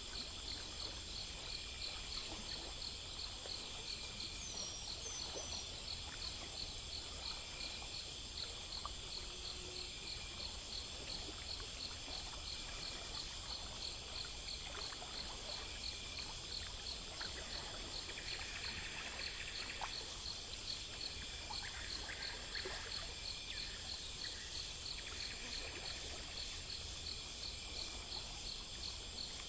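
Crickets chirping in a steady, even pulse over a continuous high insect buzz, with a faint low rumble underneath.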